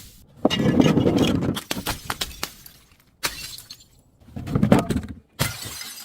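Glass being crushed and shattered: several loud bursts of breaking and crunching, with sharp cracks of fragments between them.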